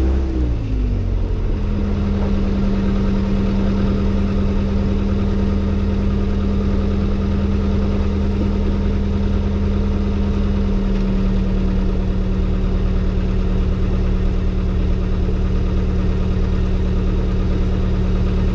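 Robin DR400-120 light aircraft's four-cylinder Lycoming piston engine and propeller at low taxi power. The revs fall at the very start, then the engine runs steadily at a low, even speed.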